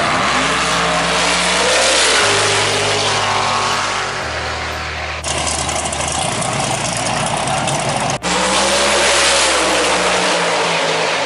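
Drag-racing car engines running loud and revving, the pitch rising and falling slowly. The sound breaks off sharply twice, about five and eight seconds in.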